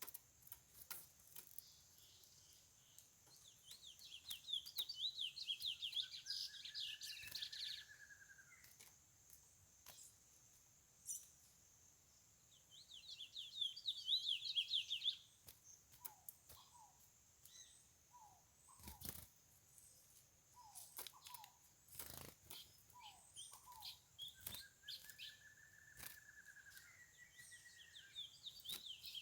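Curió (chestnut-bellied seed finch) singing: bouts of fast warbling notes, each with one long even whistle lower in pitch, heard about three times, with scattered sharp clicks between them.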